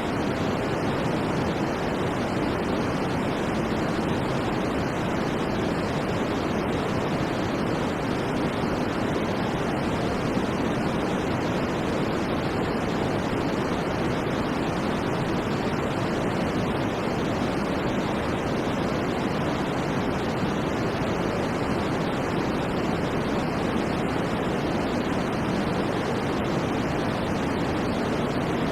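Steady, unchanging white noise played as a sleep sound, fuller in the low and middle range than in the highs.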